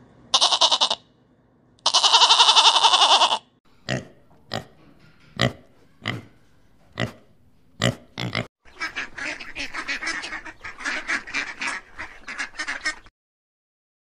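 A goat bleating: a short quavering bleat, then a longer one. Then a string of short sharp calls about half a second apart, running into a fast, dense run of pig grunting that stops about a second before the end.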